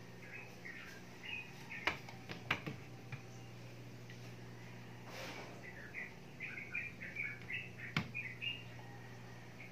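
Small birds chirping in quick, short notes, over and over, with a faint steady hum underneath. A few sharp taps break in, the loudest about eight seconds in.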